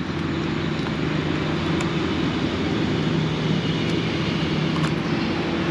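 Steady engine drone with a low hum, growing slowly louder: a motor vehicle or aircraft engine passing at a distance.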